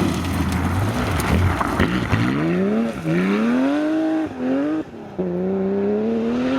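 Porsche flat-six rally car accelerating hard. The engine note climbs and drops back at quick upshifts, dips briefly, then pulls again, after a rough, noisy first couple of seconds.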